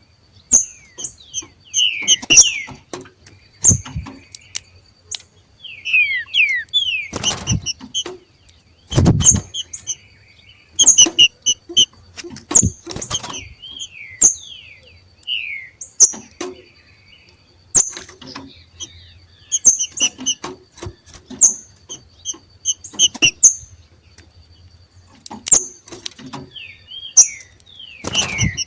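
Two green-winged saltators giving their 'macheado' call: repeated short, sharp high notes and quick downward-sliding notes, in loose bursts every second or two. Many clicks are mixed in, with a few dull thumps in the first third.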